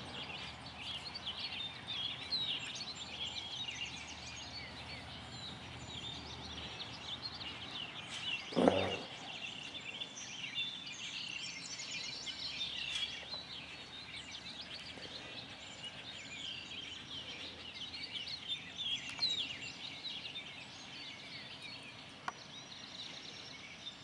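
Several songbirds chirping and singing at once in a steady outdoor chorus, with one short, louder sound about nine seconds in.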